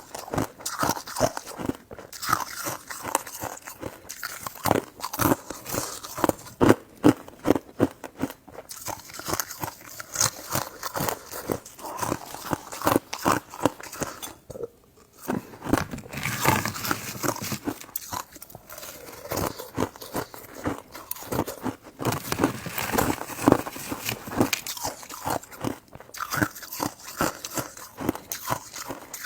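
A person eating close to the microphone: repeated bites and chewing, made up of many short, irregular clicks.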